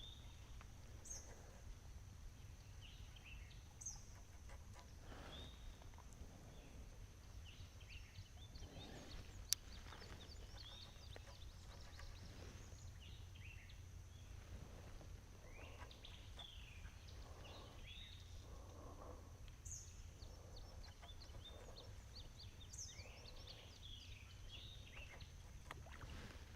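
Faint outdoor ambience: scattered bird chirps and calls over a low steady background hum, with one sharp click about ten seconds in.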